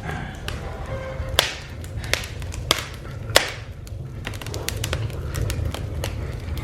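Wood fire crackling in a home fireplace, with sharp irregular pops every second or so, over quiet background music.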